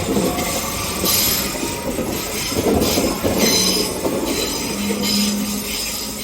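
Queensland Rail suburban train passing, wheels squealing in repeated high bursts over the clatter and rumble of the running gear, fading away near the end.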